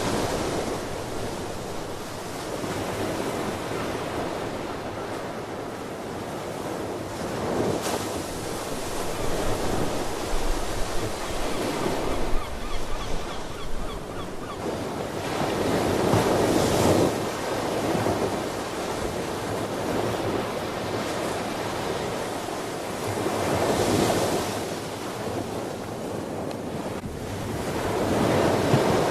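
Ocean surf: waves breaking and washing up the shore, each swell rising and falling every seven or eight seconds.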